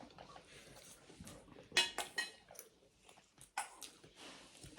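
Eating at a table: faint chewing with a few sharp clicks and clinks of tableware, the loudest about two seconds in.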